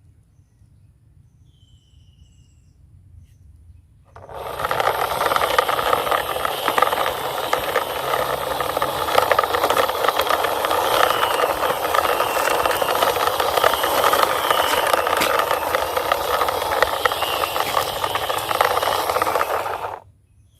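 A toy bus's plastic wheels rolling and scraping over a rough wall surface. It is a steady, gritty rattling hiss that starts about four seconds in and cuts off suddenly near the end.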